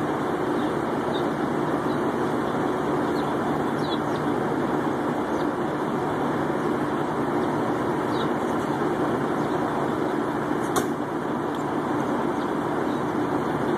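Steady engine hum of an idling vehicle, with faint short bird chirps now and then and one sharp click about eleven seconds in.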